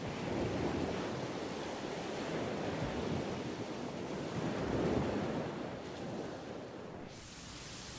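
Sea waves washing in and out, swelling twice, with wind. The wash thins out near the end.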